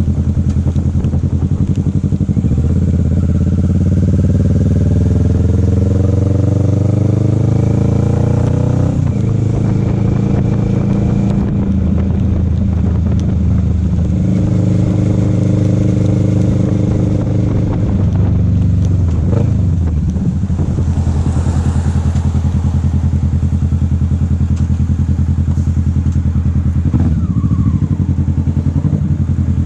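Motorcycle engine running on the move. The revs climb steadily for several seconds and drop back at an upshift about nine seconds in, then hold steady. They fall off briefly around eighteen to twenty seconds before the engine settles into a steady cruise.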